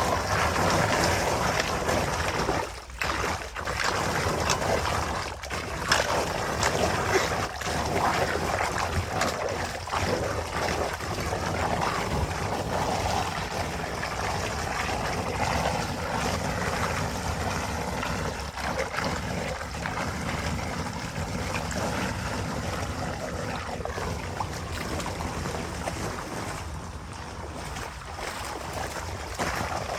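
Running water with small splashes, and wind noise on the microphone.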